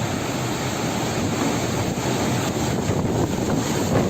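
Storm wind blowing hard, a steady rushing noise with gusts buffeting the microphone.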